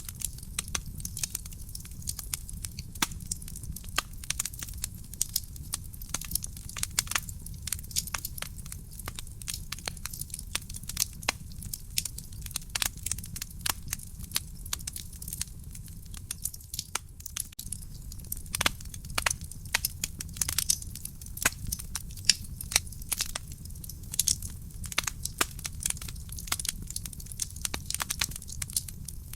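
Real wood fire burning in a fireplace: dense, irregular crackling and popping of the burning logs over a steady low rumble of the flames.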